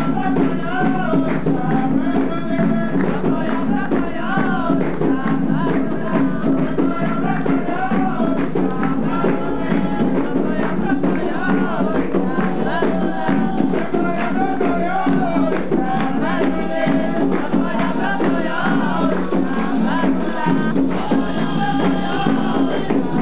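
Umbanda ritual music: a group singing a ponto (chant) over a driving, steady rhythm of hand drums and percussion.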